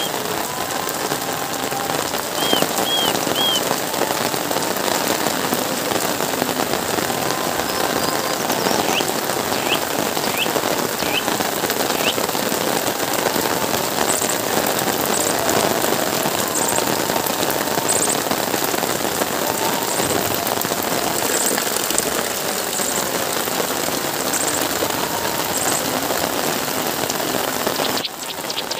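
Heavy rain falling steadily on the ground, roofs and plants, an even hiss of rain with a few short high chirps over it.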